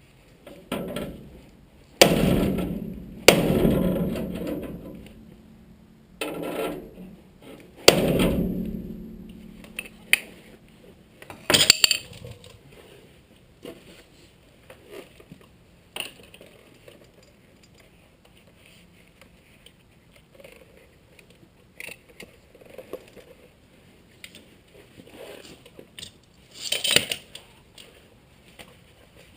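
Sheet metal being banged and handled: three loud metallic bangs that ring on for a second or two, near 2, 3 and 8 seconds in, then lighter clinks, taps and scrapes, with one more clank near the end.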